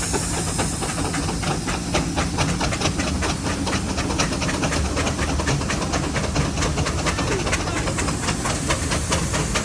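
Steam traction engine running: rapid, regular exhaust beats over a steady hiss of steam.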